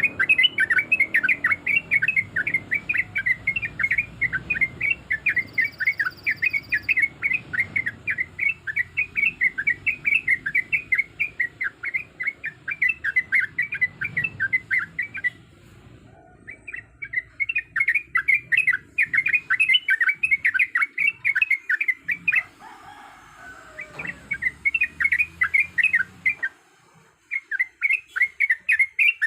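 Sooty-headed bulbul (trucuk) singing long, fast runs of rapidly repeated chattering notes, broken by three short pauses.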